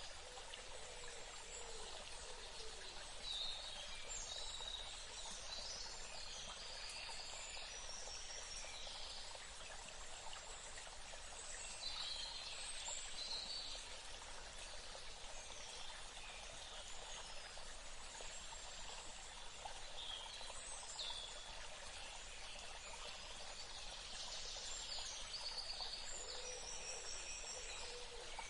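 Steady hiss of running water with birds calling on and off above it in short bursts of high chirps.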